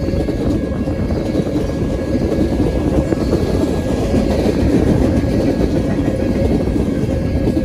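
Freight train of tank cars rolling past close by: a steady, loud rumble of steel wheels on rail, with faint thin steady tones above it, as the rear of the train goes by.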